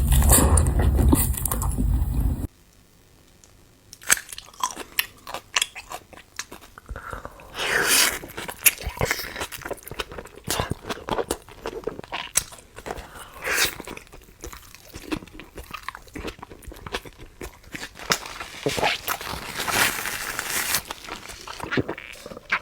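Close-miked eating: irregular crunchy bites and chewing of food. A louder sound with a strong low hum ends abruptly about two seconds in, and after a short silence the crunching begins.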